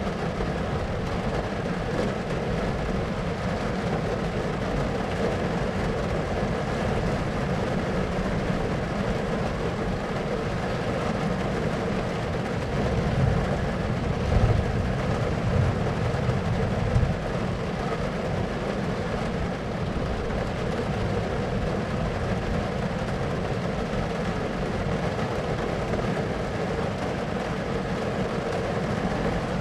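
Steady thunderstorm ambience: a constant noise bed, with a low rumble of thunder swelling for a few seconds about halfway through.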